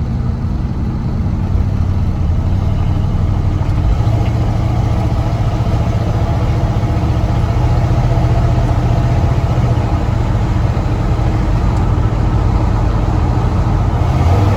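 A Ford F100 pickup's 351 Windsor V8 running steadily as the truck drives through the low gears of its freshly adjusted automatic transmission. The engine note steps up in pitch about four seconds in.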